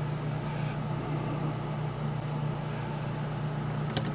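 A steady low hum over faint hiss, with a couple of small clicks near the end.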